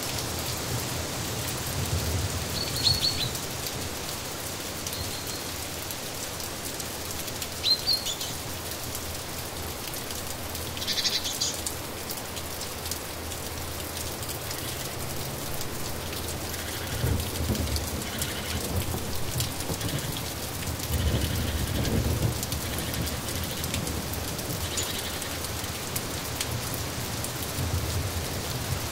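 Steady rain falling, with a few short high bird chirps now and then and a couple of low rumbles about two-thirds of the way through.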